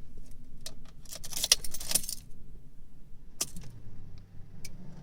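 Car keys jangling as the key goes into the ignition of a 2003 Subaru WRX STI, then a click as it turns to on about three and a half seconds in. A steady buzz starts at once. The owner calls it a weird high-pitched buzzing that sounds like an air compressor and comes on with the gauge start-up sweep.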